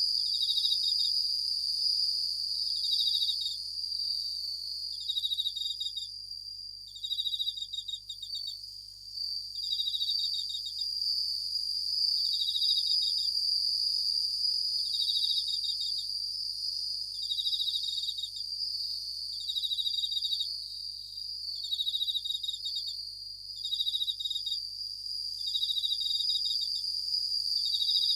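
Japanese bell crickets (suzumushi) chirping: short, high, pulsed ringing trills of about a second each, repeating about every two seconds over a steady high insect ringing.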